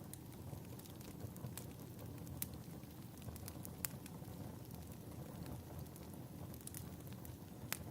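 Wood fire crackling in a fireplace: a steady low rumble with scattered sharp pops, the loudest near the end.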